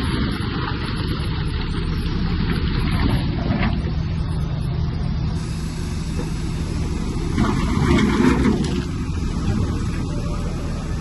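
Bulldozer's heavy diesel engine running steadily under load, with brief louder stretches of clatter about three and a half seconds in and again near eight seconds.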